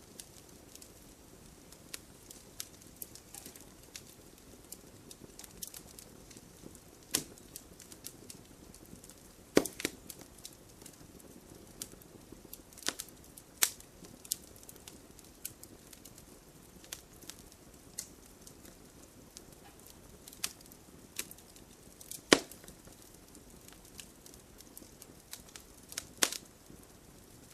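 Wood campfire crackling: irregular sharp pops and snaps over a low, steady hiss of burning, with one loud snap about two-thirds of the way through.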